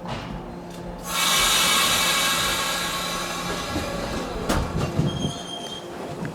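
A Shinano Railway 115-series electric train running through the station. About a second in, a loud high squeal with several tones sets in and fades over the next few seconds, and near the end comes a run of wheel knocks over rail joints.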